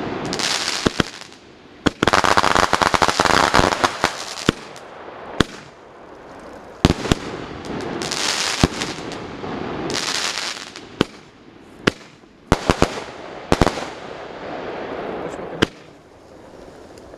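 'Show da Alegria' fireworks firing: a string of sharp bangs at irregular intervals as shells burst, with stretches of dense crackling, the heaviest about two to four seconds in.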